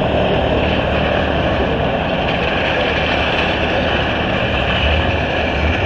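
Steady mechanical din of running machinery, a constant low hum under a hiss, with no single knock or event standing out.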